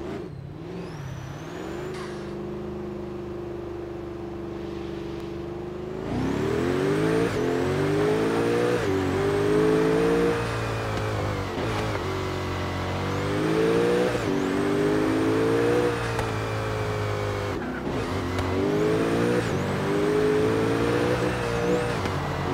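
Bugatti Veyron Super Sport's quad-turbo W16 engine heard from inside the cabin: steady cruising for about six seconds, then hard acceleration, pitch climbing and dropping back at each upshift several times over.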